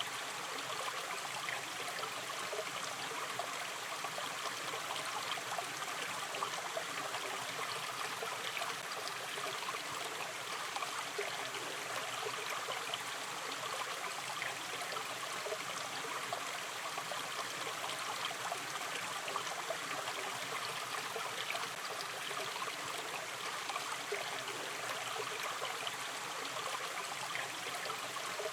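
Shallow river stream running gently over stones, a steady trickling and babbling.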